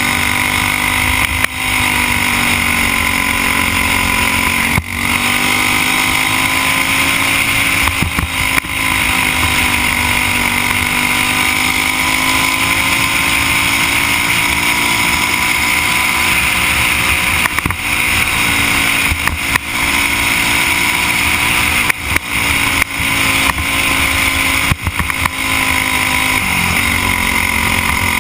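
Briggs & Stratton Animal four-stroke kart engine running at racing speed, its pitch rising and falling gently as it comes off and back on the throttle. There are brief dropouts in the sound every few seconds.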